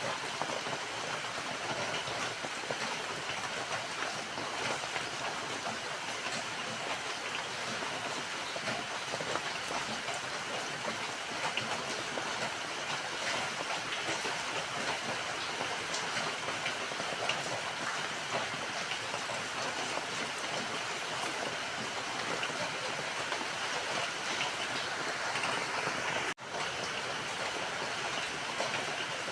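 Steady rain falling, a dense even hiss of drops with no letup, broken once near the end by a split-second dropout.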